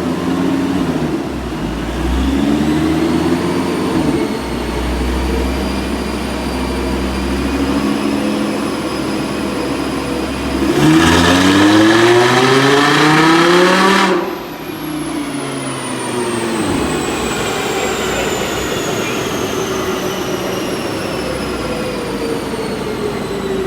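Supercharged car engine on a baseline dyno pull: it runs under load with a high supercharger whine slowly rising, then revs up hard for about three seconds, the loudest part, and cuts off suddenly about fourteen seconds in as the run aborts. Afterwards the engine coasts down while a high whine falls steadily in pitch.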